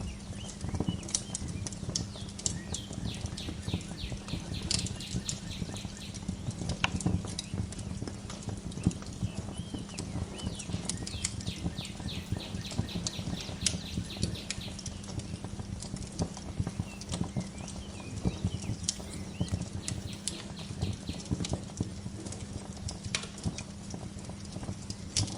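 Fireplace wood fire crackling and popping continuously, with small birds chirping in quick trills over it, busiest around the middle and again a little later.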